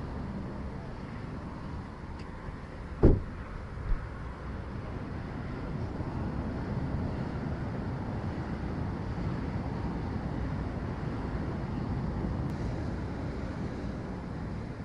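Steady rumble of passing road traffic, with a sharp thump about three seconds in and a smaller knock a second later.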